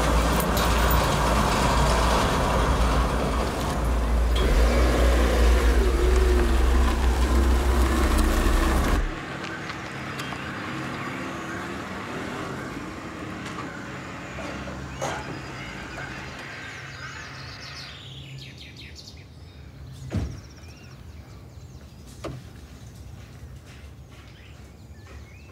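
A car engine runs with a loud, steady low rumble and then cuts off abruptly about nine seconds in. Quieter outdoor ambience follows, with a few bird chirps and a couple of sharp knocks.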